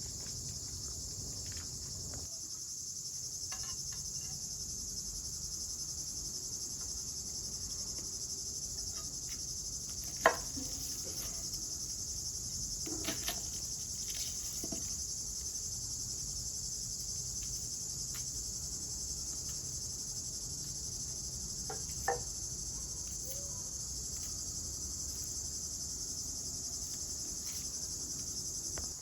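Steady chorus of crickets chirping, with a few short knocks, the loudest about ten seconds in and another about twenty-two seconds in.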